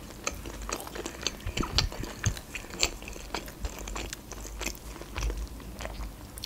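Close-miked chewing of a mouthful of tombik döner, a grilled bread sandwich with meat filling, with irregular sharp crunching clicks several times a second.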